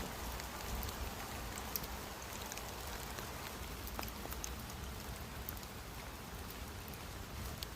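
Steady rain falling in woodland: an even hiss with scattered individual drops ticking close by.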